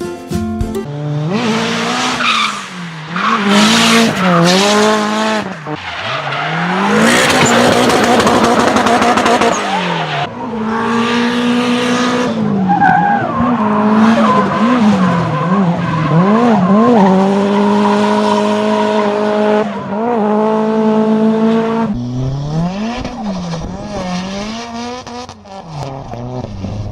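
Car engine revved hard again and again, its pitch climbing and dropping, with held stretches at high revs. Bursts of tire squeal come with it.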